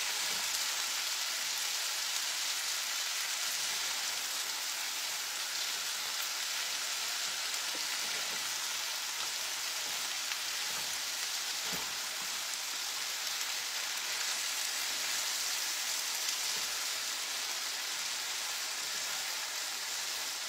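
Sliced bitter melon sizzling steadily in oil in a frying pan as it is stir-fried, with a few knocks of a slotted spatula against the pan.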